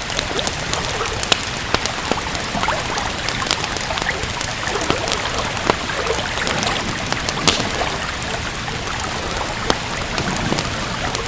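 Steady rain falling, with the sharp snaps and pops of a crackling wood fire scattered over it, several a second and a few louder ones.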